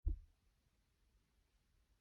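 A single brief low thump at the very start, dying away within a quarter of a second, then near silence.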